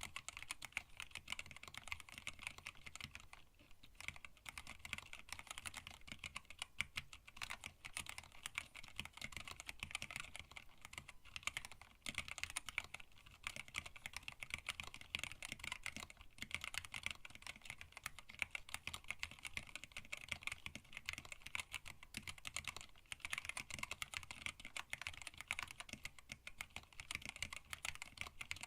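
Continuous typing on a hand-wired split mechanical keyboard with Tealios linear switches, blank PBT keycaps and a stacked acrylic case: a dense run of keystroke clicks and clacks, with brief lulls about four and twelve seconds in.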